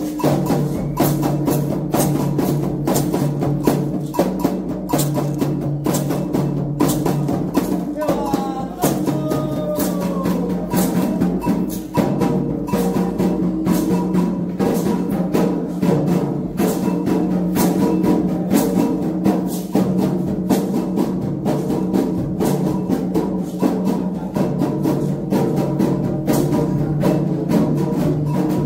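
Candomblé ritual music: atabaque hand drums and a metal bell beat a steady, dense rhythm, with voices singing a chant over it.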